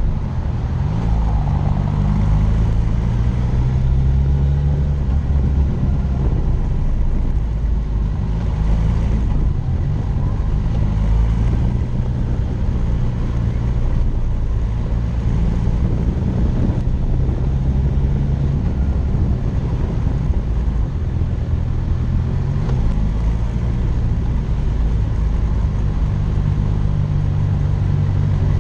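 Motorcycle engine running under way, its low pitch holding steady and then shifting in steps a few times, over a steady rushing noise of wind.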